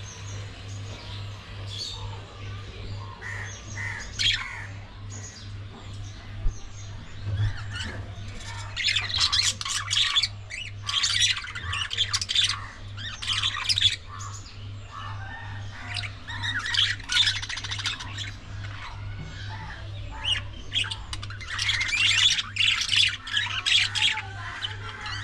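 Budgerigars chattering and squawking in several bouts of rapid warbling, loudest in stretches around the middle and near the end, over a steady low hum.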